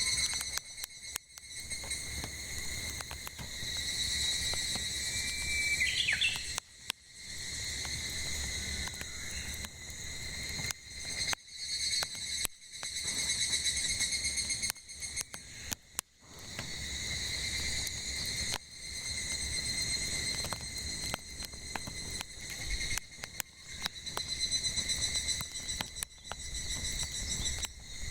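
Cicadas singing in a steady, pulsing chorus that swells and drops back in waves, over the crackle and pops of burning firewood. A bird calls briefly about six seconds in.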